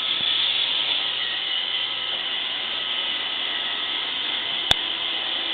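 Roomba robot vacuum running with a steady high-pitched whir, and one sharp click a little before the end.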